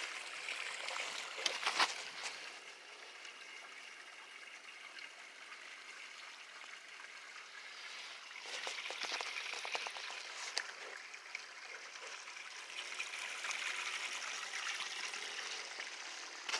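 Runoff water trickling steadily through a shallow ditch channel, with a few light clicks now and then.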